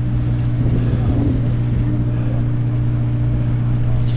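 A fishing boat's engine running with a steady low drone, with wind noise on the microphone.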